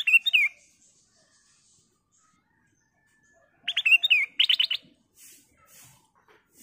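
Black-crested bulbul (kutilang emas) singing: two short phrases of quick, clear whistled notes that slide up and down, one at the start and one about four seconds in.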